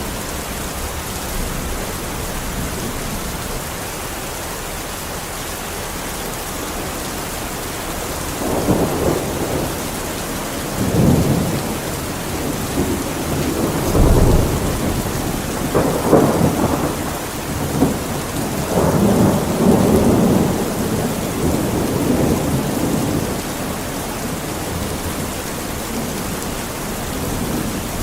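Steady heavy rain hissing, with a long roll of thunder rumbling through the middle, swelling several times and loudest about halfway through before fading back to rain alone.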